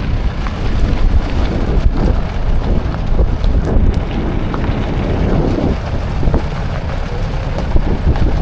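Wind buffeting the microphone of a moving open vehicle, a dense irregular low rumble under the rushing air.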